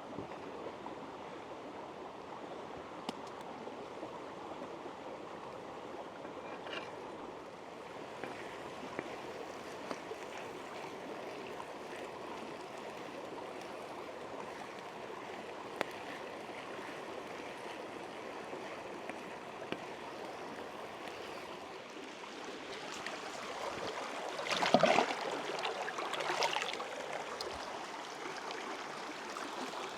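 Steady rushing of running water, with scattered faint clicks and a louder burst of noise about 25 seconds in.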